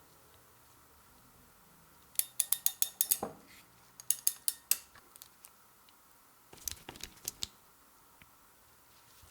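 Runs of sharp metallic clicks: a quick run of about seven, a shorter run of four or five a second later, and a looser cluster near the end.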